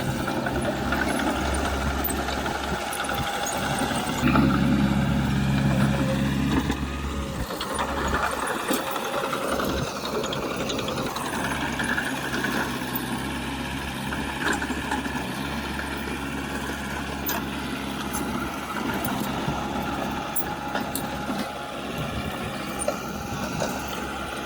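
Diesel engine of heavy earthmoving machinery running steadily, louder for a few seconds about four seconds in, as under load or revving, then settling back.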